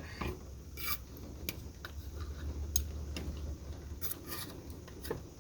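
Scattered light clicks and scrapes of taking pineapple chunks out of an opened can, over a faint low hum.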